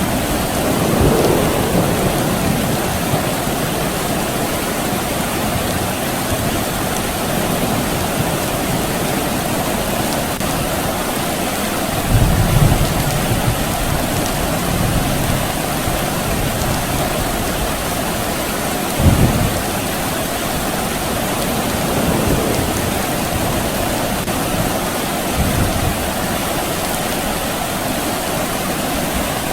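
Steady soft rain falling, with several low rumbles of distant thunder; the two strongest come a little before and a little after the middle.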